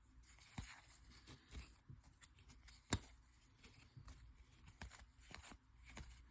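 Faint handling of baseball trading cards: cards sliding against each other as they are flipped through, with scattered light ticks and one sharper click about three seconds in.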